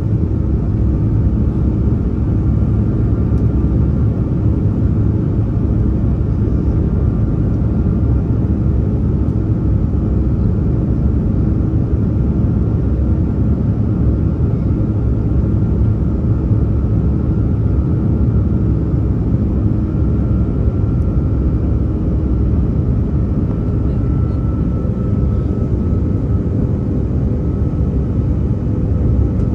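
Steady drone inside the cabin of an Airbus A330-300 airliner: its Rolls-Royce Trent 700 engines and the rushing airflow make an even, loud low rumble with a few faint steady tones above it, unchanged throughout.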